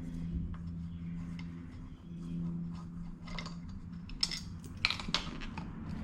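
Scattered light metallic clicks and clinks of hand tools and small scooter wheel parts being handled, the sharpest ones about three to five seconds in, over a steady low hum.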